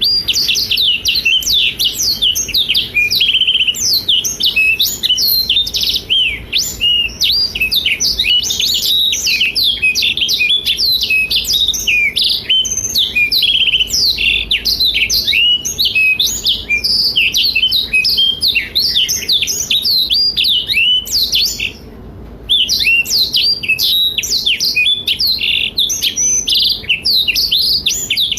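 Black-throated canary (Blackthroat) singing continuously: a rapid, unbroken stream of high chirps, trills and twitters, with one brief break about three-quarters of the way through.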